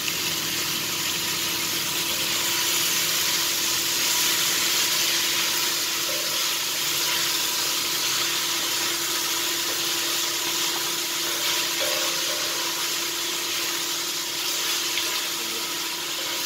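Cubed chicken breast sizzling in hot oil in a wok, a loud steady hiss that swells as the chicken goes in and then holds while it is stirred. A faint steady hum runs underneath.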